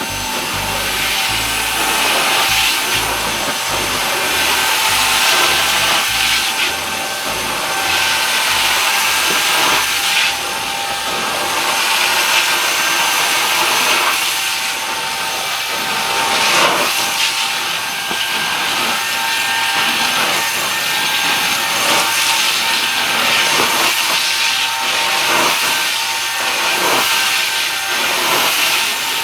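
Hot-water carpet extraction wand drawn across wet carpet in repeated strokes, a loud rushing suction hiss swelling with each pass every second or two over the steady whine of the extractor's vacuum. This is the extraction rinse that pulls out the pre-treated urine and soil.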